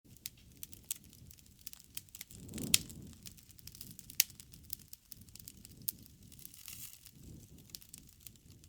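Campfire crackling: irregular sharp pops and snaps of burning wood over a low rumble of flames, with the loudest pop about two and a half seconds in.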